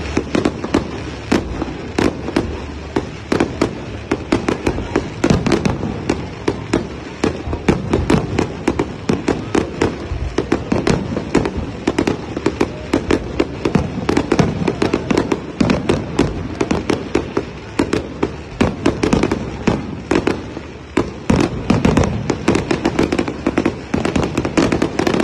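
Fireworks barrage: a rapid, continuous run of sharp bangs and crackling bursts, several a second, from small aerial shells fired in quick succession.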